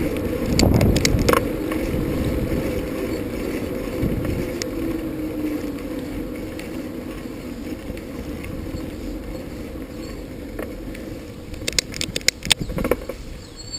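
Riding a bicycle on a road: steady rushing tyre and wind noise, with a run of sharp clicks near the end.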